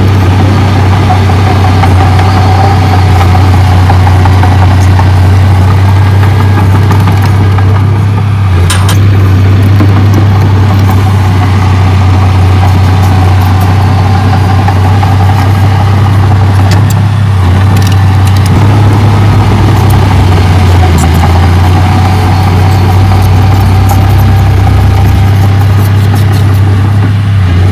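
Diesel engine of heavy earthmoving equipment running steadily with a loud, continuous low hum. A short knock about eight and a half seconds in.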